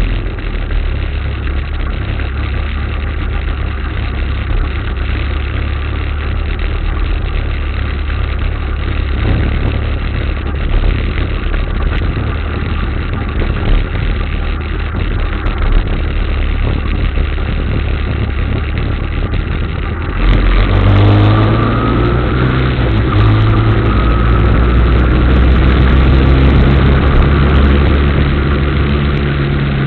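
Motorcycle engine running under way with a steady drone. About two-thirds of the way in it gets louder and its pitch climbs in steps as the bike accelerates.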